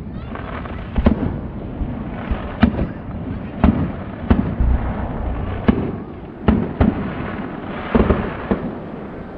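Aerial fireworks shells bursting in a rapid, uneven string of sharp bangs, about nine in all, over constant crackling.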